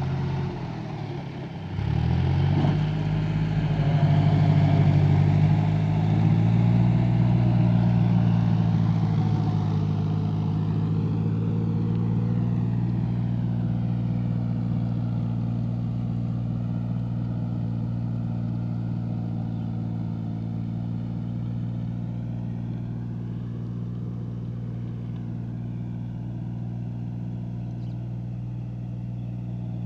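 John Deere 5055E tractor's three-cylinder diesel engine working in a field: it briefly drops, then picks up revs about two seconds in and settles into a steady, even run under load, slowly growing fainter.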